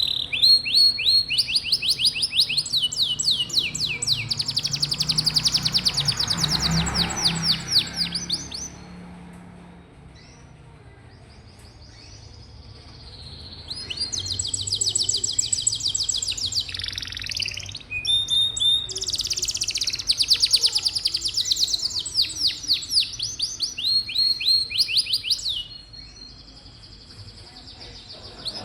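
Domestic canary singing long rolling trills of rapid, repeated high notes in two bouts, with a few seconds' pause between them and again near the end.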